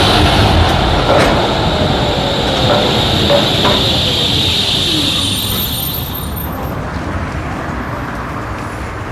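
Tram pulling in and slowing to a stop: wheels rumbling on the rails with a whine that falls in pitch as it decelerates, and a thin high squeal just before the noise dies away about two thirds of the way through.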